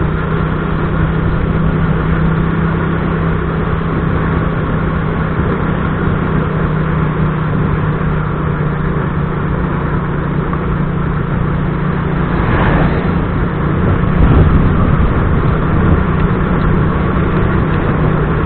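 Motorcycle engine running at a steady pace with road and wind noise while the bike is ridden on a flat tyre. A brief swell of noise comes about twelve seconds in.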